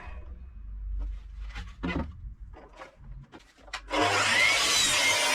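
Power saw cutting high-density plywood: a quieter gap with a low hum and a few knocks, then the loud cutting noise starts again about four seconds in.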